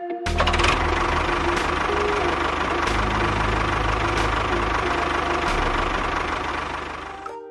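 Small motor of a DIY miniature tractor or bulldozer running steadily with a rattling, buzzing mechanical noise and a few sharp clicks. It cuts in just after the start and stops abruptly near the end.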